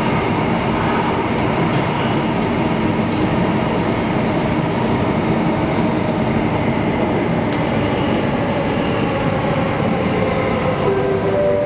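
Interior noise of an SBS Transit C951 (Bombardier Movia) metro train running underground: a steady rumble of wheels on rail. Near the end, a few steady tones from the train's traction drive step up in pitch, typical of the train braking into a station.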